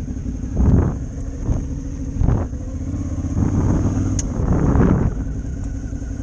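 Motorcycle engine running at a steady pitch on the move, with several short surges of rushing noise over it.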